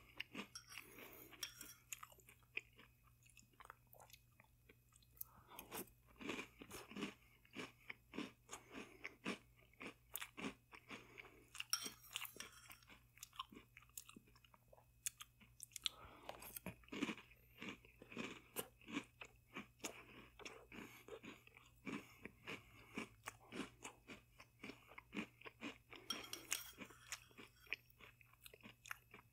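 Close-up chewing of crunchy chocolate cereal balls in milk: a run of crunches and wet chewing in bouts, with short pauses between mouthfuls.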